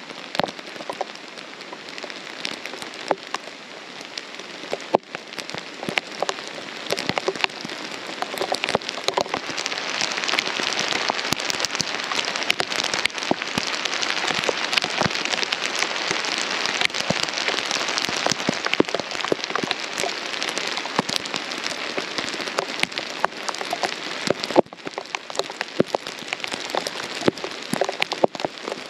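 Steady rain falling through pine trees, with single drops tapping sharply on the camera. The rain gets heavier several seconds in and eases slightly near the end.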